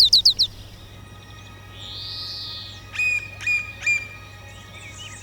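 Birds calling: a quick run of falling chirps at the start, then three sharp notes a little past the middle, with fainter calls near the end.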